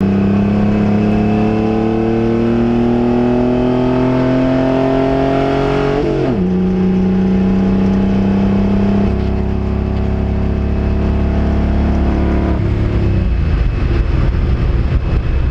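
Pontiac Fiero GT's V6 engine heard from inside the race car under load, its pitch climbing steadily, then dropping sharply about six seconds in and holding steady. Near the end the clean engine note breaks up into a rough, uneven noise as the engine blows.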